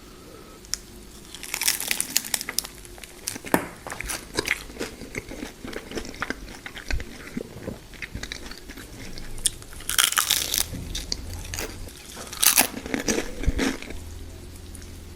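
Close-miked crunching bites and chewing of a fried spring roll, with many sharp crackles and two louder bouts of crunching about ten and twelve seconds in.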